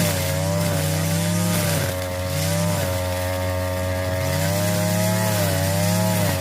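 Chainsaw running and cutting wood, its engine pitch dipping several times as the chain bites and recovering in between.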